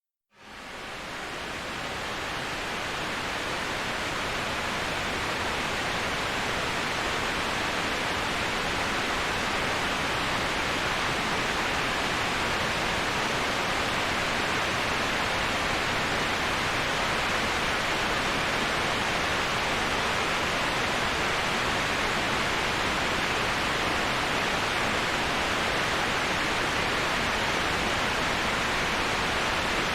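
Steady rushing of a waterfall, an even hiss of falling water with no changes. It fades in from silence just after the start.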